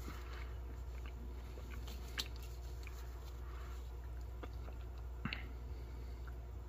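Faint chewing of a mouthful of filled dark chocolate, with two small clicks over a steady low hum.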